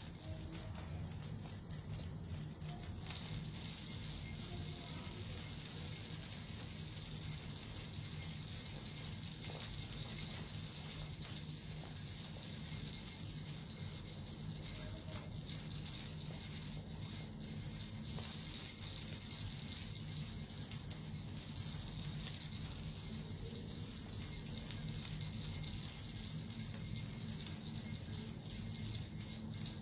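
Small Japanese suzu bells shaken steadily, an unbroken shimmering jingle with no pauses.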